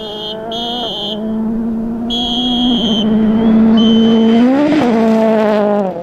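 Rally car engine held at high revs, pitch rising and falling briefly near the end, with a high-pitched whine that cuts in and out several times.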